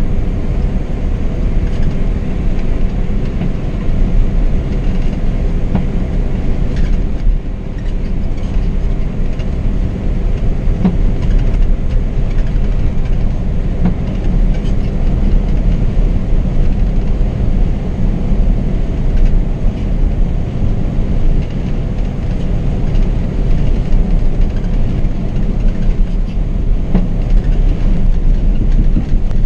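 Marcopolo 1800 DD double-decker coach on a Scania K420 chassis driving on the road, heard from the driver's position: a steady, loud low rumble of engine and tyres.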